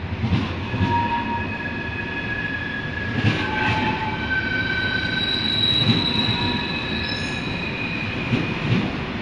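TGV high-speed trainset rolling slowly past along the platform, its wheels squealing in several high, steady tones that come and go, over a steady rumble with a few sharp knocks from the wheels.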